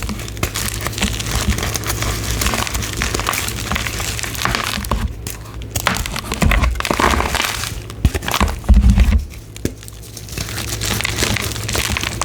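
Gym chalk blocks being crushed, giving dense crunching and crackling with a short lull about nine seconds in.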